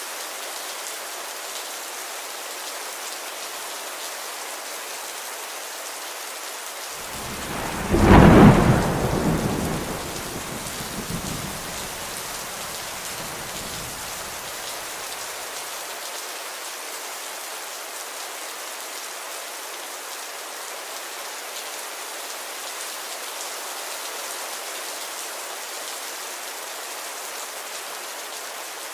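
Steady rain hiss, with one clap of thunder about seven seconds in that peaks sharply and rumbles away over the next several seconds.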